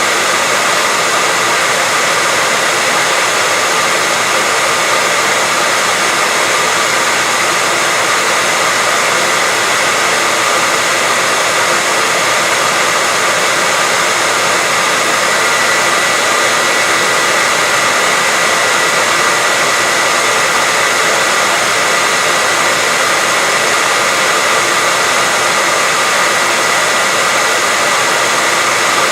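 Continuous white noise: a loud, even, unchanging hiss with little deep rumble and a faint steady high tone running through it.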